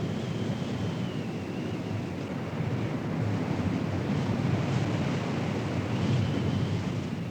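Strong wind blowing across the microphone, a steady low rushing noise with a faint wavering high whistle above it. It grows somewhat louder through the middle of the stretch.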